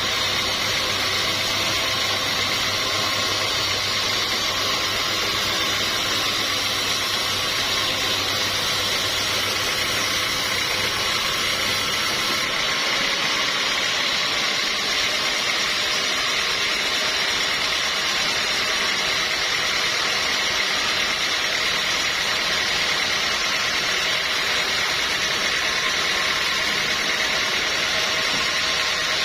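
Sawmill machinery running with a steady, even mechanical noise. A low hum drops away about twelve seconds in while the main noise carries on.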